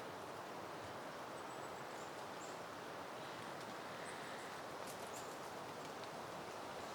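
Soft, steady wind rustling through peony plants, with a few faint, short, high chirps.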